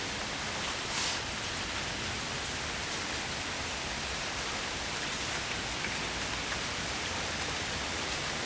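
Steady rain falling in a thunderstorm: an even, unbroken hiss, with a brief sharper rustle about a second in.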